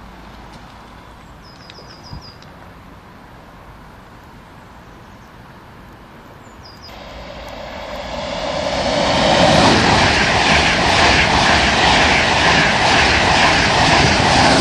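A Virgin Trains East Coast express train approaches and runs through the station at speed without stopping. The rush of the train builds from about halfway through and stays loud as the coaches go by. A bird chirps a few times about two seconds in.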